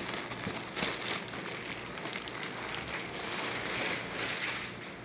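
Plastic packaging crinkling and rustling as it is handled, with many small crackles and clicks.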